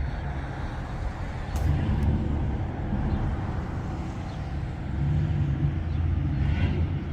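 Deep, low engine rumble of a car or truck moving slowly, swelling louder twice.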